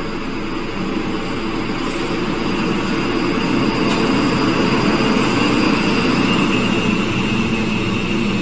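ScotRail Class 334 Juniper electric train pulling into the platform, its running rumble growing louder, with a high whine joining in partway through.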